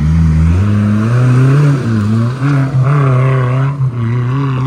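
Modified Maruti Gypsy's engine revving hard under load as the 4x4 climbs a steep off-road obstacle, its pitch rising and wavering with the throttle.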